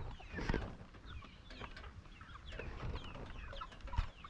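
A flock of chickens calling: many short, falling high-pitched cheeps and clucks overlapping. A single knock about four seconds in.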